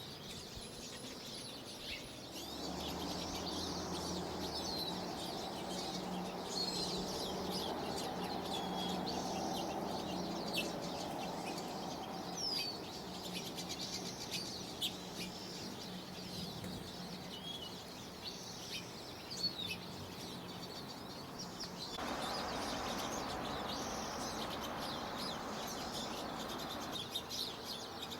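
Wild garden birds calling, with many short chirps and whistles throughout. A low steady hum sounds underneath for most of the first half and again for a few seconds near the end.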